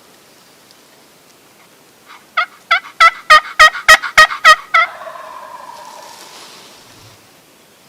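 A turkey call yelping: a run of about nine loud, evenly spaced hen yelps over roughly three seconds, building and then tapering, with a fainter drawn-out tone trailing off after it.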